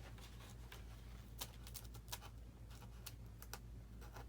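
A blade cutting a channel into foam: faint, irregular scratching clicks, over a steady low hum.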